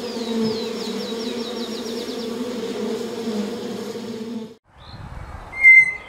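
Honeybees at the hive entrance buzzing, a steady low hum, with a small bird trilling faintly in the background over the first two seconds. The hum cuts off suddenly after about four and a half seconds. Near the end a tapir gives one short, high whistle, the loudest sound.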